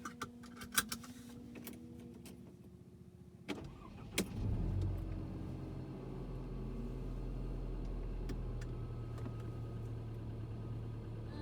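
Mercedes-Benz C300 (W205) starting: a few clicks, then about four seconds in the engine cranks and catches, flares briefly and settles into a steady idle.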